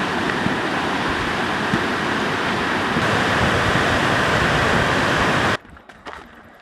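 Fast glacial river rushing beneath a suspension bridge, a loud, steady roar of water that cuts off suddenly near the end.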